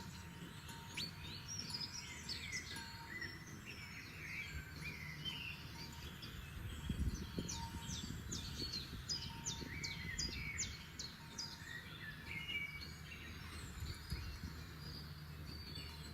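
Several forest songbirds singing and calling, with varied short chirps and whistles. About halfway through, one bird gives a fast run of repeated high notes. A steady low rumble of background noise runs underneath.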